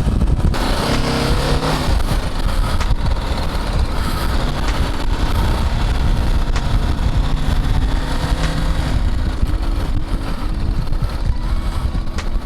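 BMW G310GS single-cylinder motorcycle engine running under way, over a steady low rumble of road noise; the engine note changes pitch a couple of times.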